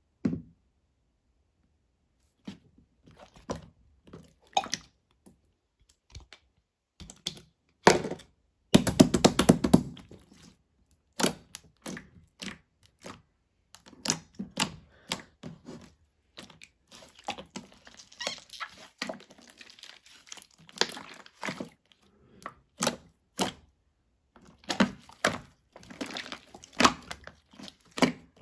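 Purple slime being squeezed, poked and stretched by hand, giving irregular sticky clicks and pops, with a quick run of crackling about a third of the way in.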